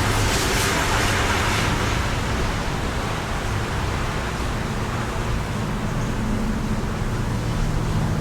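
Steady wind rushing outdoors, swelling louder in the first couple of seconds and then easing, over a steady low hum.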